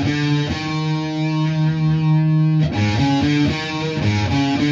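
Distorted electric guitar playing a rock riff with every note picked. A few short notes lead into one note held for about two seconds, followed by a run of quicker notes near the end.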